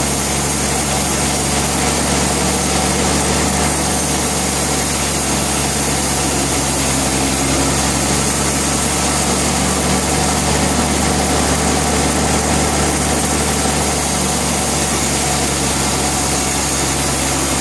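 Sawmill machinery running steadily: an engine-like hum under a constant rushing noise, unchanging throughout.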